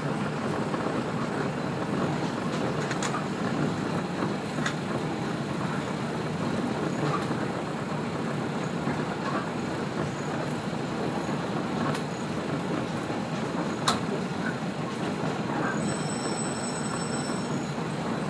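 Kashima Rinkai Railway 6000-series diesel railcar running along the line, heard from inside the cabin: a steady rumble from engine and wheels, with scattered sharp clicks, the loudest about 14 s in, and a faint high squeal near the end.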